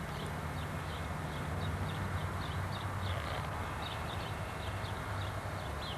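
Small birds chirping over and over above a steady low hum.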